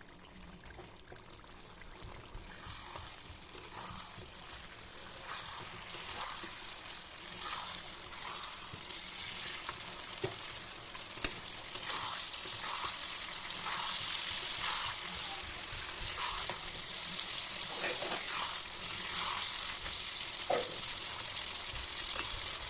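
Chicken pieces sizzling as they fry in a spice paste in a pan, the sizzle growing louder, with occasional knocks and scrapes of a spatula stirring them.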